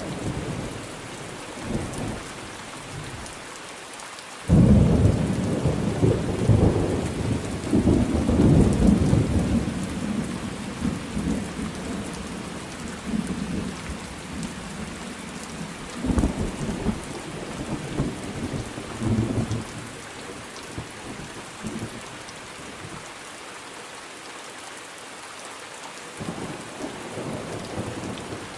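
Thunderstorm with steady rain falling. About four and a half seconds in, a sudden loud thunderclap rolls on as rumbling for several seconds. Weaker rumbles of thunder follow later.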